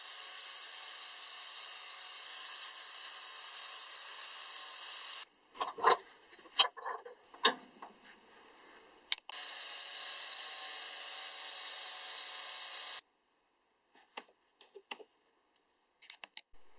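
Angle grinder running steadily as its abrasive disc grinds the steel head of a small axe clamped in a vise, stopping abruptly about five seconds in. A series of sharp metal knocks and clicks follows as the axe is handled in the vise, then the grinder's steady sound runs again for a few seconds, and a few light clicks come near the end.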